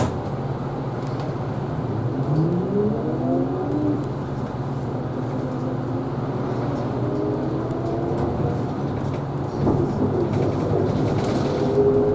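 Isuzu Erga Hybrid city bus driving, heard from inside the cabin: a steady low drivetrain hum with rising whines several times as the bus picks up speed. A short click right at the start.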